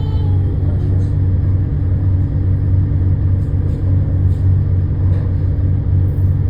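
Steady, loud, low mechanical drone with a constant hum that does not change.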